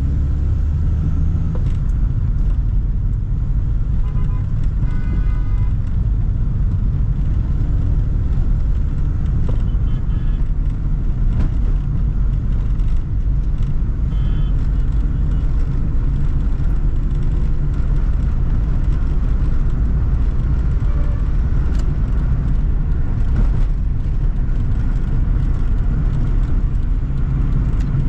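Toyota Sprinter AE110 car driving, a steady low rumble of engine and road noise.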